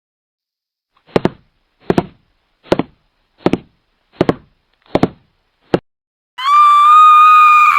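Foot tapping: seven even taps a little under a second apart. Near the end, a high, steady scream begins.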